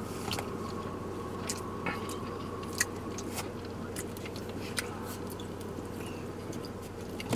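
Soft chewing and mouth sounds of a man eating food with his fingers, with a few scattered small clicks, over a steady low hum inside a car.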